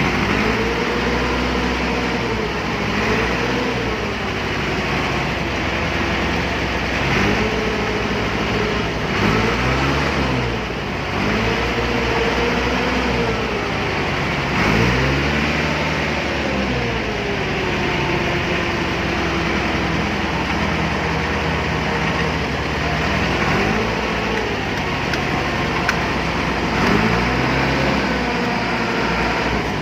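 A vehicle engine running, its pitch rising and falling over and over as it is revved up and eased off every couple of seconds.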